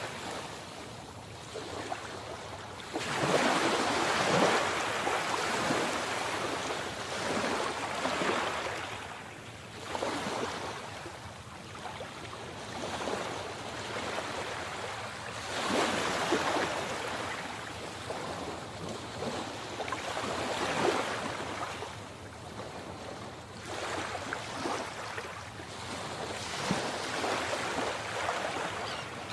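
Sea waves breaking and washing in, the surf swelling and falling away every few seconds; the biggest surge comes a few seconds in.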